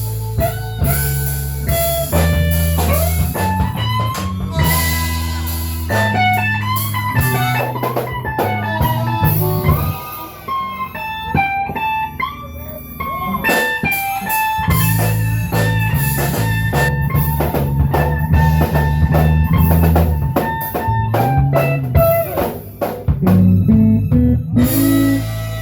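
Live blues band playing an instrumental break: electric guitar lead with bent notes over a drum kit beat.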